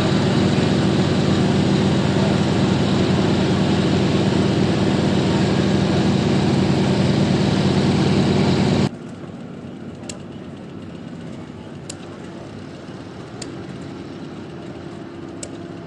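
Tractor engine running loud and steady, then cutting off abruptly about nine seconds in to a quieter engine running at low speed, with a few faint high clicks.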